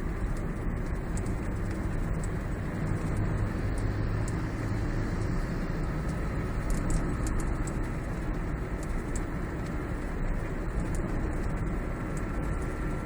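Steady road noise inside a moving Toyota Prius's cabin, with faint, irregular high ticks over it: the kind of small rattle the owner suspects comes from inside the instrument panel.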